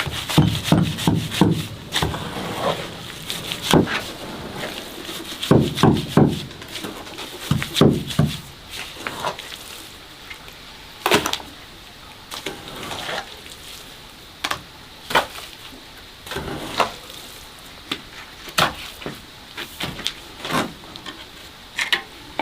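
Irregular knocks and thuds, with clusters of heavier low thumps in the first half and sharper, scattered clicks later.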